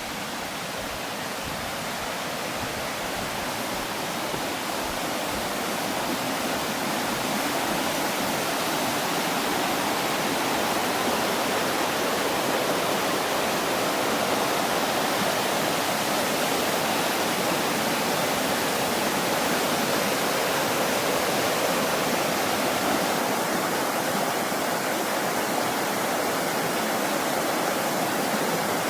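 Steady rush of running water from a stream, growing louder over the first several seconds and then holding even.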